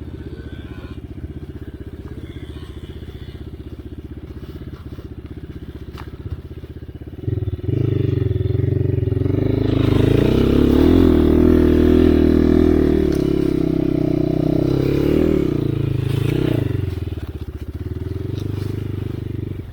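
Enduro dirt bike engine running at low revs, then picking up about seven seconds in as the throttle is opened, held louder for several seconds and easing back off a few seconds before the end.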